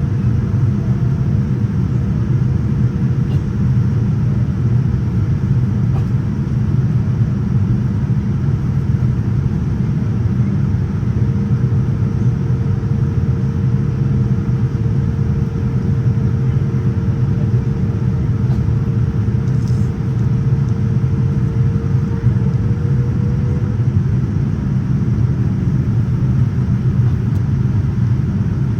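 Steady rumble of a Boeing 787-9 cabin in flight: airflow and the Rolls-Royce Trent 1000 engines' hum. A faint steady tone runs through it, stepping slightly higher about eleven seconds in and fading out a few seconds before the end.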